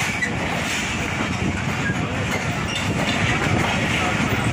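Passenger train starting to pull out, its coach wheels rolling along the rails with a steady rumble and a light clatter, mixed with voices of people on the platform.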